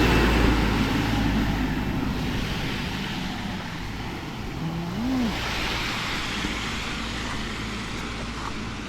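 A truck passing close on the road, its engine rumble and tyre noise loudest at first and then fading away.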